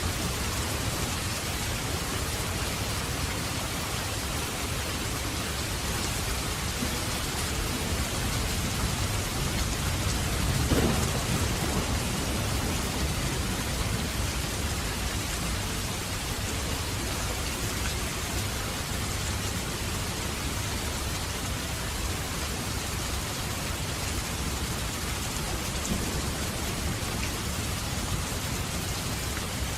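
Steady rain falling, with one crack and rumble of thunder about a third of the way in that fades over a few seconds.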